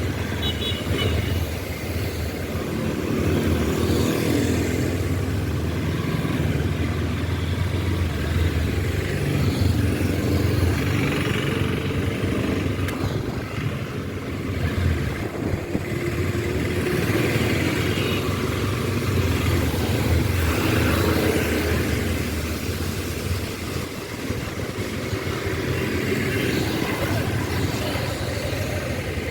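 Honda CB200X's 184 cc single-cylinder air-cooled four-stroke engine running while the motorcycle is ridden, its revs rising and easing every few seconds.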